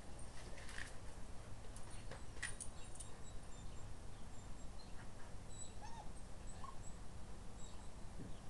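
Puppies whimpering faintly, with a couple of short high whines about six seconds in, over a steady low rumble and scattered faint clicks.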